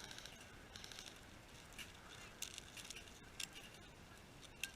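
Faint rustling, then a few sharp single clicks spaced about a second apart in the second half, the last the loudest.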